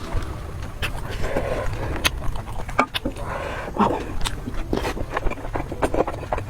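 Eating sounds: chewing and crunching food close to the microphone, with many sharp clicks scattered through, over a steady low rumble.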